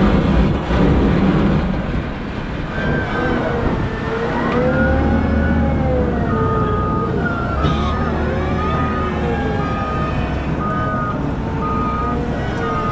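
Caterpillar 972M XE wheel loader working, its diesel engine and drivetrain running with a deep rumble and a whine that rises and falls in pitch. From about six seconds in, a reversing alarm beeps about once a second.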